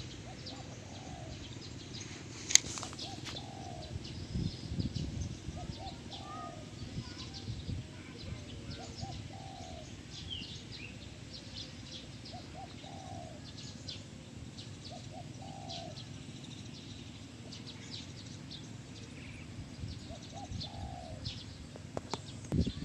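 Birdsong in the open: a low two-part call repeated every two to three seconds, with scattered high chirps of small birds, over a steady low rumble. A single sharp click about two and a half seconds in.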